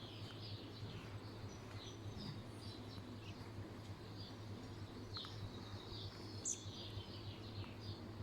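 Small birds chirping again and again, short high calls, over a steady low hum.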